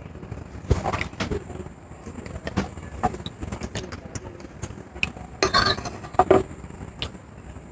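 Scattered clinks and light knocks of dishes and cutlery while a meal is eaten, loudest in a short cluster about two-thirds of the way in.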